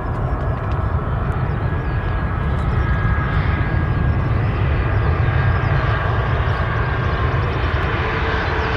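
Jet airliner engines running loud and steady, with a faint high whine over a deep rumble.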